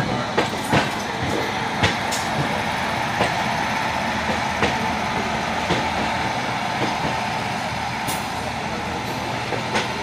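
Sleeper coach of the 18010 Ajmer–Santragachi Express running, heard from inside the coach: a steady rush of wheels on rail with a sharp click or knock about once a second as the wheels cross rail joints and points.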